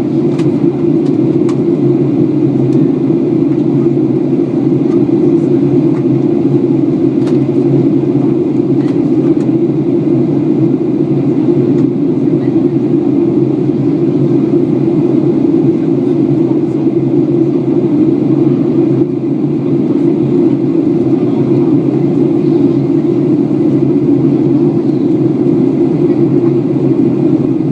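Steady drone of a Boeing 737-800 in flight, its engines and airflow heard from inside the cabin, with a few faint clicks in the first half.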